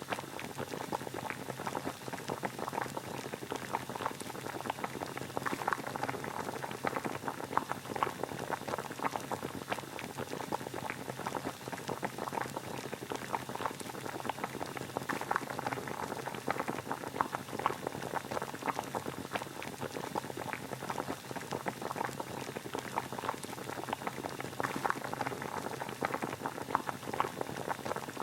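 Water boiling steadily, a dense bubbling crackle of many small pops that keeps on without a break.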